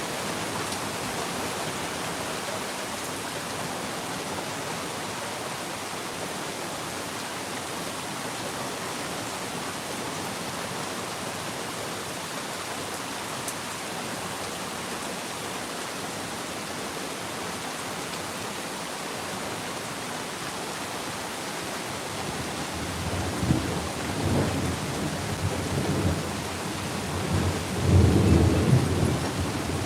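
Steady rain falling. About three-quarters of the way through, thunder starts to rumble in and grows to a loud, low peak near the end.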